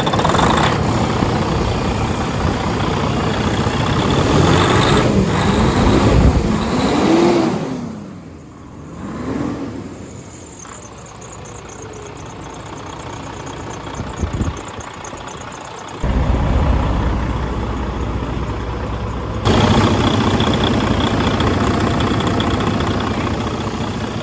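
Detroit DD14 14.8L diesel engine running just after starting, revved up and back down a few times in the first half, then settling to idle. The level jumps suddenly twice later on.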